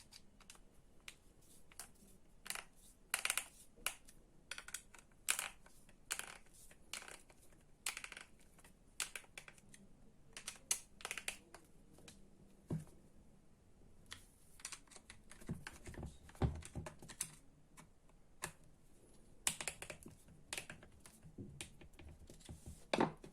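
Irregular light clicks and knocks of plastic and metal parts being handled and fitted together during reassembly of an electric string trimmer's motor housing, with a few duller thumps in the middle.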